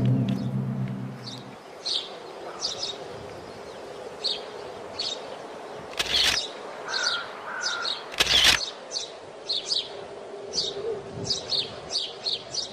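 Small birds chirping over and over in short, high calls, with a low tone fading out in the first second and a half. Two brief rushes of noise cut in, about six and eight seconds in.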